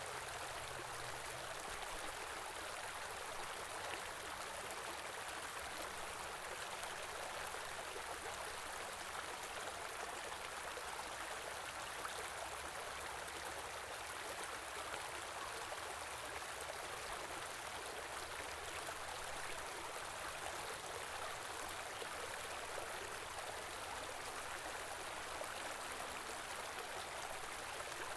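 Small river or stream flowing steadily, an even rushing and babbling of water.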